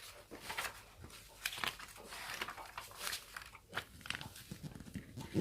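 Light handling sounds: plastic fan parts and paper rustling and clicking as they are fitted together by hand.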